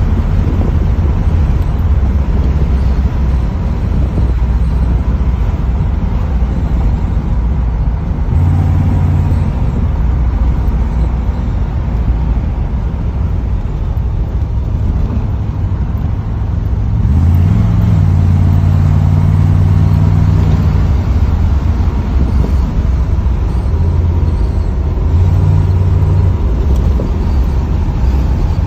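Chevrolet Corvette's V8 engine and road noise heard from inside the cabin while driving. It swells several times, and about 17 seconds in it climbs in pitch as the car accelerates, holding higher for a few seconds before easing off.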